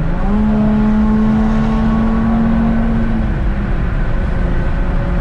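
Car engine revving hard through a loud exhaust: the pitch climbs at the start, holds steady at high revs for about three seconds, then eases off into a rumble.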